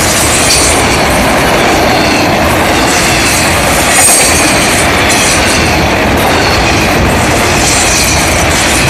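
Loud, steady rolling noise of a long string of autorack freight cars passing close by, steel wheels running on the rails, with a brief high-pitched squeal about four seconds in.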